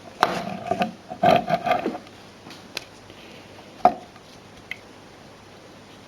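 Clatter and knocks of hard objects being handled: a quick run of knocks in the first two seconds, then one sharp knock about four seconds in.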